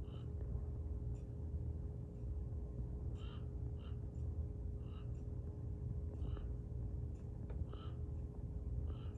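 A bird off-screen gives short calls about seven times at irregular gaps, over a steady low background rumble.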